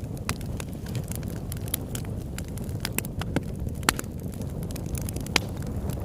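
Campfire crackling, with irregular sharp pops from the burning wood over a low steady rumble; three pops stand out louder than the rest.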